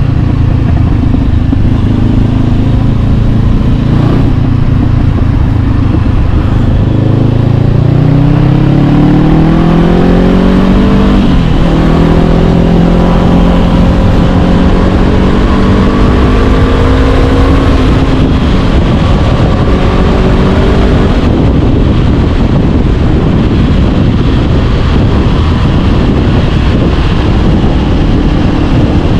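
Honda CB500X's parallel-twin engine through an Arrow Pro-Race aftermarket exhaust, riding along. It holds steady at first, then the pitch climbs under acceleration, dips at a gear change about eleven seconds in, and climbs again before settling into a cruise, with wind noise taking over in the second half.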